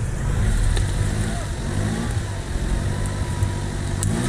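Off-road 4x4's engine revving under load, the pitch climbing and falling back several times.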